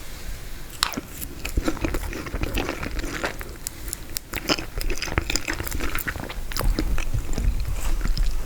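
Close-miked chewing and biting of frozen tiramisu, with irregular sharp wet mouth clicks.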